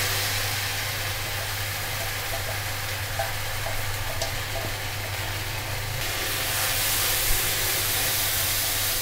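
Ground green pea paste sizzling in hot oil in a steel kadhai as it is scraped in from a bowl and stirred with a spatula, with a steady low hum underneath.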